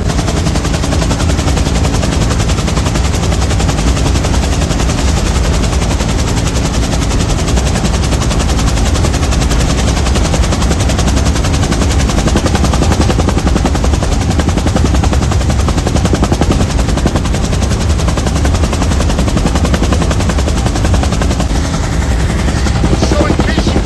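Bell UH-1 Huey helicopter running loud and steady, heard from on board, its turbine noise overlaid by the fast, even chop of the two-blade main rotor.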